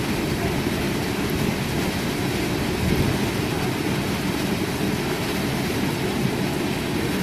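Steady rushing of a waterfall and fast river water, deepest in the low range and unchanging throughout.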